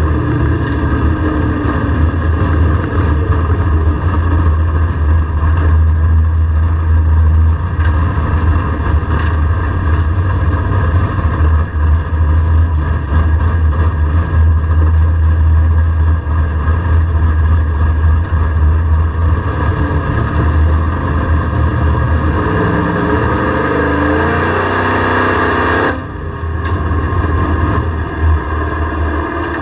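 LSX V8 of a race-prepped Camaro, heard loud inside the stripped cabin, slowing down after a drag pass and rolling along at low speed with a deep steady exhaust rumble. The engine note falls early on, climbs again later, then drops off suddenly a few seconds before the end.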